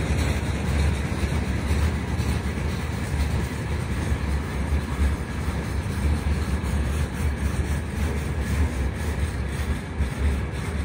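Freight train of open gondola wagons rolling slowly past, a steady low rumble without distinct wheel clicks.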